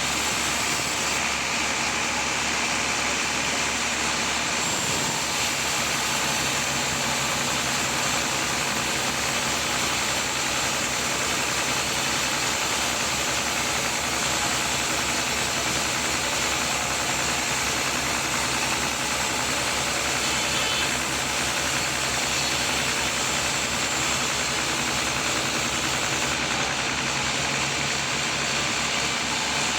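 Sawmill machinery running steadily: a constant engine drone with an even hiss over it, and no change in level.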